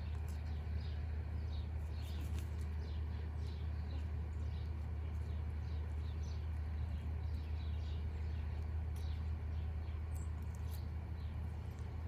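Birds chirping in many short, high notes, most of them falling in pitch, over a steady low hum.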